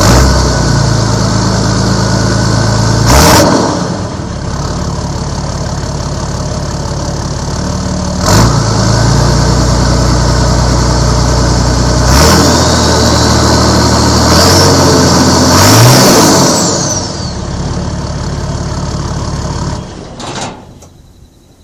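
Nissan GU Patrol's TD42 six-cylinder turbo diesel, through a three-inch exhaust with no mufflers, idling between several sharp revs. The turbo whistles, rising in pitch as it spools up and falling away after the last rev. The engine is switched off near the end.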